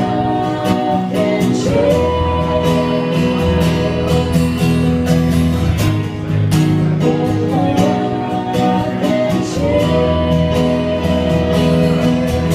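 Live acoustic song: acoustic guitar strummed in a steady rhythm under a voice singing long held notes.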